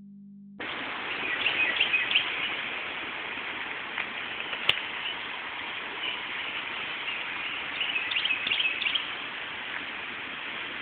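Outdoor background hiss with two short bouts of bird chirps, and a single sharp click about halfway through.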